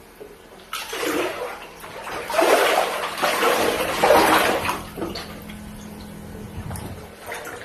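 Floodwater sloshing and splashing in several surges, loudest in the first half, over a faint steady low hum.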